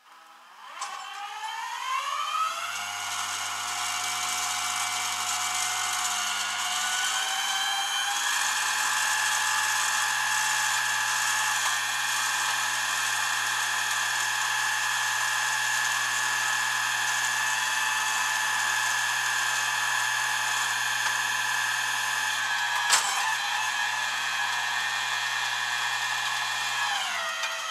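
A motor whine that spins up over the first couple of seconds, runs steadily with a step up in pitch about eight seconds in and a single sharp click near the end, then winds down.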